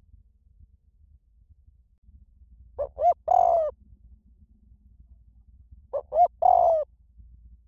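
Spotted dove cooing: two identical phrases about three seconds apart, each two short coos followed by a longer one.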